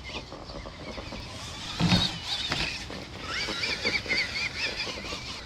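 A radio-controlled monster truck's electric motor whines, its pitch rising and falling as the throttle is worked, with one sharp thump about two seconds in.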